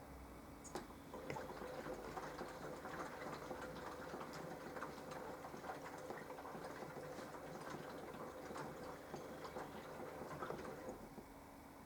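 Mini washing machine running a wash phase: the motor hums while water and laundry slosh and patter in the turning drum. It starts with a click about a second in and stops near the end.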